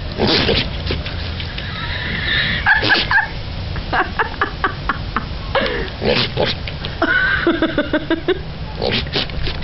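Goat bleating again and again with its mouth wide open. It gives a quick run of short, stuttering calls in the middle, between longer wavering calls.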